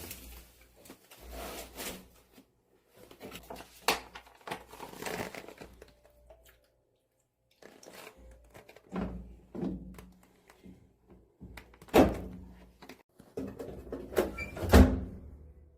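Household handling sounds: scattered knocks, clunks and clatter of things being moved and set down, with a brief silence about halfway through and the loudest thuds about twelve seconds in and near the end.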